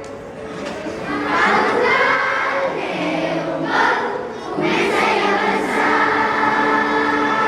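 A group of children singing a song together in chorus, with backing music.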